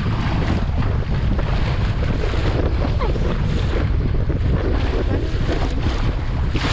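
Strong wind buffeting the microphone in a steady low rumble, with water rushing and splashing along a sailboat under way in choppy water.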